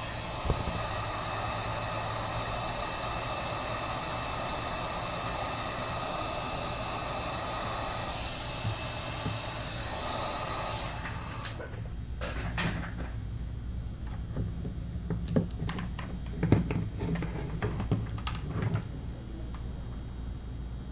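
Heat gun blowing steadily for about eleven seconds, then switched off. Scattered clicks and light knocks from handling the phone and tools follow.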